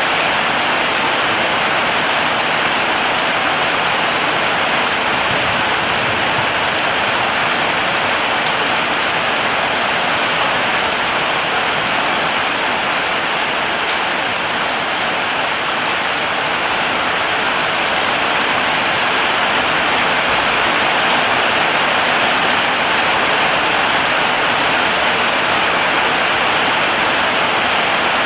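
Steady heavy rain, a dense even hiss of drops falling on a surface.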